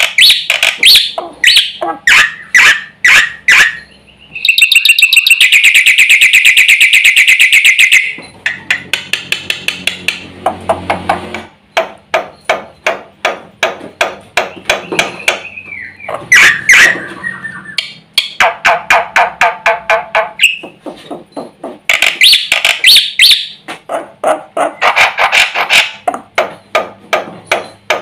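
Black-winged myna singing loudly: runs of sharp repeated notes and harsh calls, broken by short pauses, with a long rapid rattling trill from about four to eight seconds in.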